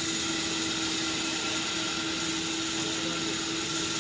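Sawmill machinery running steadily: a constant mechanical drone with one steady mid-pitched hum and a high whine, with no break or change.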